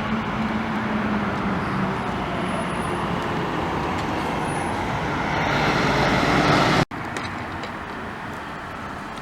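Street traffic noise of passing cars, with one vehicle passing louder and building to a peak about seven seconds in. The sound cuts out abruptly and resumes as steadier, quieter traffic.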